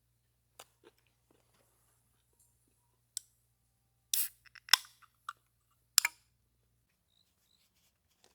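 A handful of sharp clicks and knocks from something being handled. There is a short scraping rustle about four seconds in, and the loudest knocks fall around four and a half and six seconds in.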